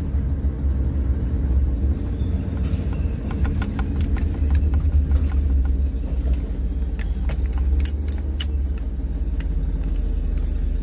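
Pickup truck towing a trailer at low speed: a steady low engine and road rumble, with light irregular clicking and rattling from about three to nine seconds in.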